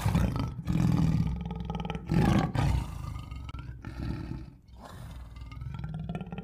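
Tiger giving a series of deep roars and growls, loudest in the first half, with short breaks between the calls.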